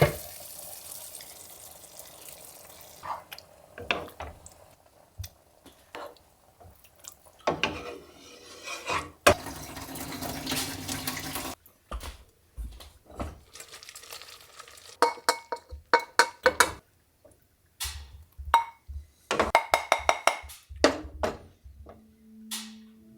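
Hand dishwashing: water splashing in a sink and a string of clinks and knocks as plates, pots and cutlery strike one another, some clinks ringing briefly. Soft music comes in near the end.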